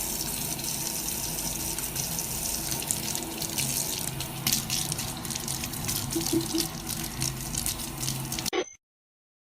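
Steady rush of running water, stopping abruptly near the end.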